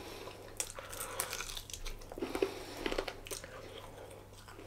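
A person chewing and biting into a sriracha BBQ chicken thigh, with irregular crunches and clicks of the mouthful, several louder crunches around the middle.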